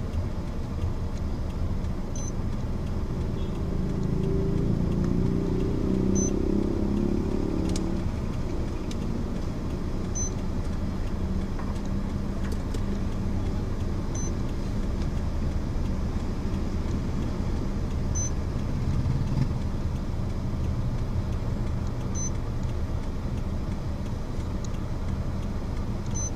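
Steady low rumble of a car driving, with a faint short tick about every four seconds.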